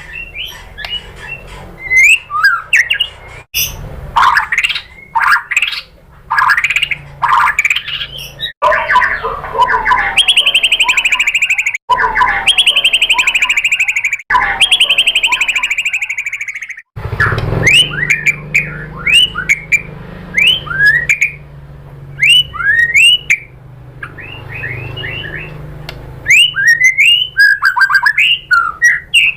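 White-rumped shama (murai batu) singing a fast, varied string of whistled notes, with long stretches of rapid repeated notes in the middle, in short pieces joined by abrupt cuts.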